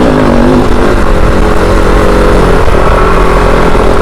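Kove 450 Rally's single-cylinder engine running at a steady pace while riding a dirt trail, with a continuous low rumble.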